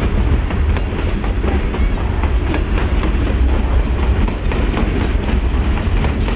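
Freight cars of a traprock train rolling past close by: a steady low rumble with the wheels clicking repeatedly over rail joints.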